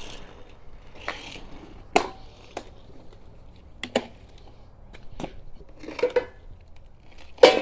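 Heavy steel parts knocking and scraping on a wooden pallet as a removed steering and suspension assembly is set onto it: scattered clunks a second or so apart, the loudest one near the end.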